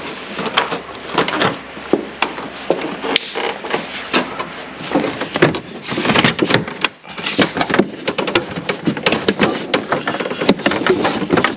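Irregular plastic clicks, knocks and rattles from hands working in a tight spot on the truck, trying to lift and twist a twist-lock part loose.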